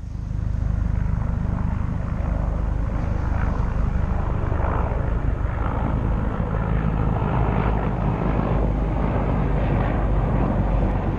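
Strong wind buffeting the microphone: a loud, steady low rumble that starts abruptly and keeps on.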